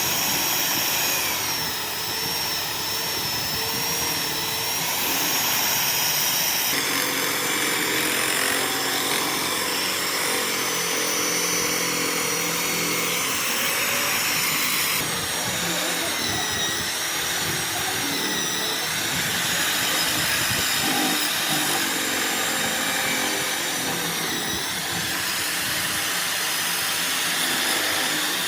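A motor-driven machine running steadily, likely the restored chisel mortiser at work. Its sound changes abruptly twice, about a quarter and about halfway through.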